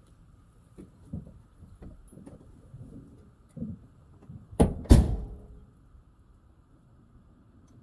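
Scattered light knocks, then two heavy thuds about half a second apart roughly halfway through, the kind of sound a car door or hood makes being shut.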